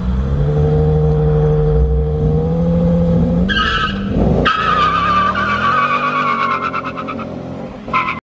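Two cars racing, a Mustang GT's 5.0 V8 and a stock G35's V6: engines held hard at a steady pitch for about three seconds, then a long high-pitched tire squeal from about halfway that slowly falls away as the engines fade.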